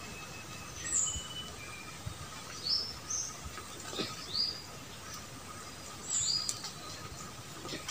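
Wild birds calling in forest, short high chirps repeated every second or two over a steady faint hum, with a few faint knocks.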